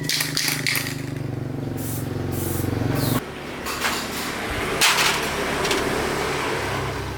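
A machine motor runs steadily and stops abruptly about three seconds in. Bursts of hissing spray and scraping clicks follow.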